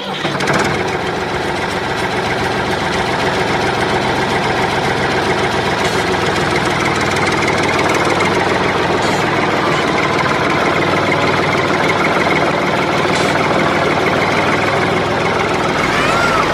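Tractor engine running steadily at an even pace, with a knocking clatter.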